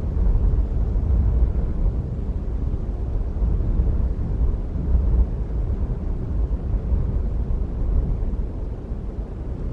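Wind buffeting an outdoor camera microphone: a low, steady rumble that swells and eases.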